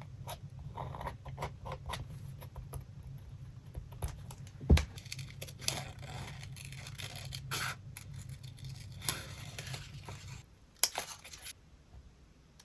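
Paper being handled for a collage: scraping, rustling and tearing of paper with light ticks and taps, and one sharp knock about five seconds in. A low steady hum runs underneath and stops near the end.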